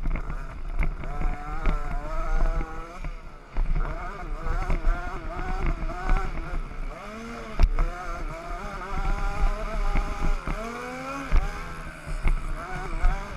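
Several 50cc youth motocross bikes racing, their small engines revving up and down with overlapping, wavering engine notes that rise and fall throughout.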